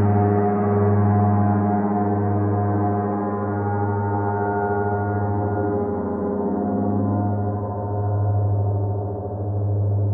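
Shawn Aceto rain gong sung with a Bearlove flumie friction mallet: a sustained, many-toned metallic drone with no struck attacks. Its deep hum swells and fades in slow pulses about once a second, and the upper shimmer slowly fades.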